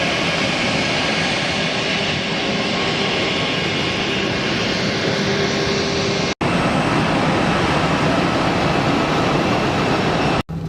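Airbus A319 jet engines running at high power: a loud, steady rushing noise with a faint whine. It is broken by two abrupt edit cuts, one about six seconds in and one near the end.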